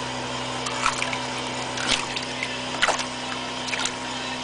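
Short splashes of water in an ice-fishing hole, four of them about a second apart, over a steady mechanical hum.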